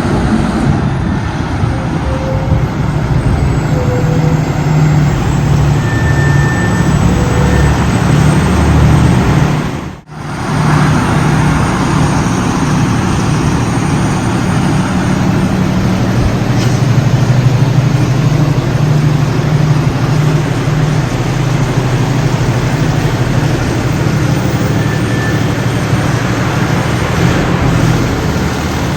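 Fire engine's diesel engine running close by, a steady loud rumble. The sound cuts out briefly about ten seconds in.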